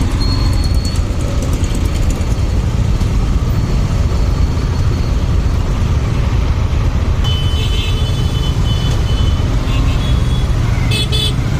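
Steady low rumble of wind and engine on a moving motorcycle in road traffic. Brief high-pitched tones sound about seven seconds in and again near the end.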